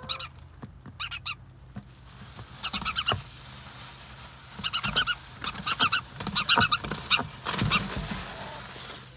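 A frightened sparrow giving rapid, harsh distress chirps in several bursts while being held by hand, followed by a rustle of handling near the end.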